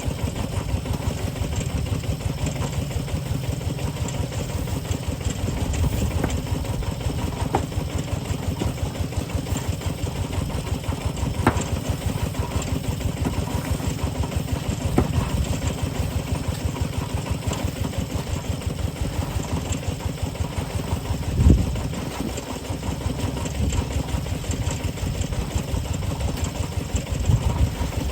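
An engine running steadily at an even speed, with a rapid pulsing beat and a few short knocks.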